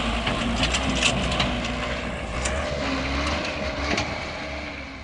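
Heavy vehicle rumbling low, with scattered knocks and creaks over it, fading toward the end.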